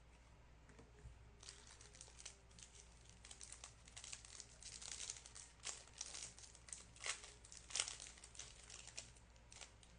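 A trading-card pack wrapper being torn open and crinkled by hand. The irregular crackling starts about a second and a half in and dies away near the end.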